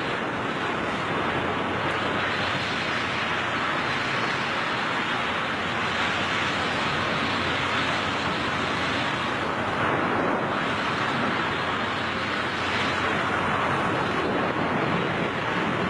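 Steady rush of air over a skydiver's camera microphone in free fall, an unbroken noise with no change in level.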